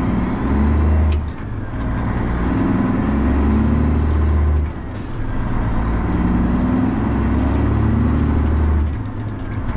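Straight-piped 12.7-litre Detroit Diesel Series 60 inline-six in a Freightliner truck, pulling hard and climbing in revs through the gears. Three upshifts break it: the note drops about a second in, again near the middle and once more near the end.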